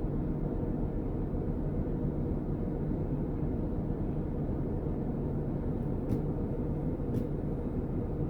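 Steady low rumble of a car's engine idling, heard from inside the cabin, with a couple of faint clicks about six and seven seconds in.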